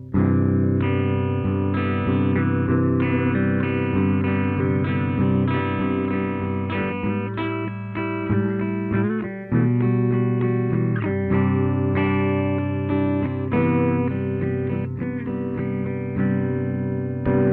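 Electric guitar played through a home-built distortion pedal: sustained distorted chords and single notes, changing every second or so, with a brief break about halfway through.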